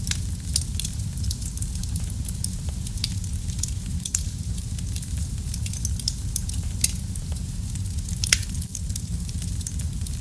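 Wood fire burning in a fireplace: a steady low rumble of the flames with frequent small crackles and pops, and one sharper snap a little past eight seconds.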